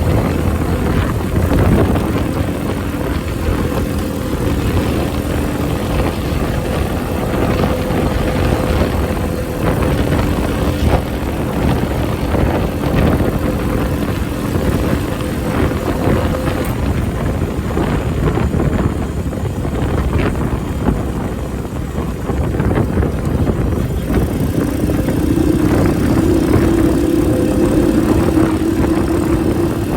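Honda Benly CS90's small single-cylinder four-stroke engine running under way, with heavy wind buffeting on the microphone. The engine note grows stronger a few seconds from the end.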